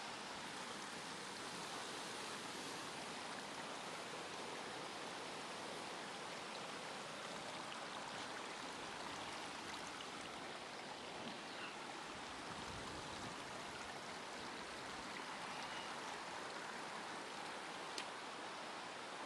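Mountain stream water rushing steadily, with one brief sharp click near the end.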